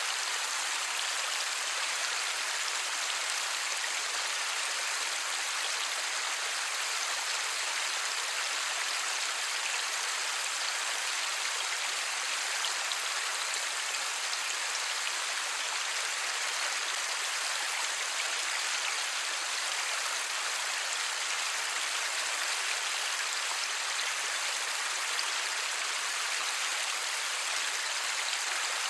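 Light rain falling steadily with no thunder: an even, unbroken hiss of many drops.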